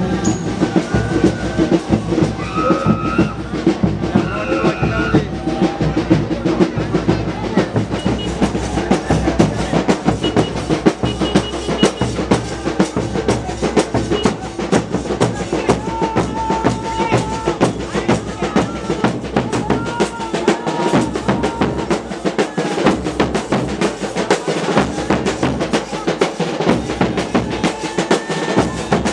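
Festival percussion ensemble drumming loudly, with dense, rapid strokes, and a few short pitched notes above it.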